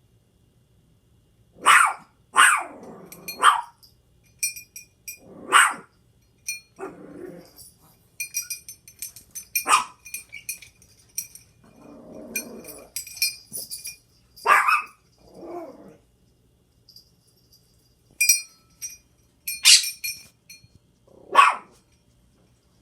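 Chihuahua barking in sharp outbursts, about eight of them, with some lower growling in between. A small bell rung by a quaker parrot jingles in quick bursts on and off through the middle.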